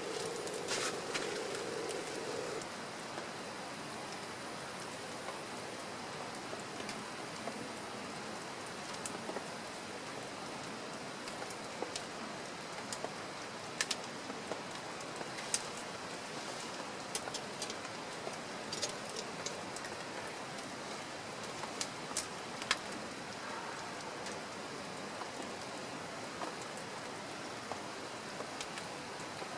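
Steady rain with scattered sharp taps of individual drops falling on a surface. A low steady sound underneath stops about two and a half seconds in.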